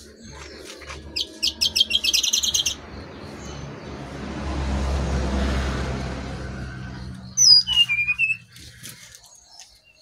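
Brown-chested jungle flycatcher (sikatan rimba dada coklat) lure calls: a fast run of sharp high chirps about a second in, then a swelling and fading rush of noise, then a falling whistle followed by a few short notes near the end. A low steady hum runs underneath.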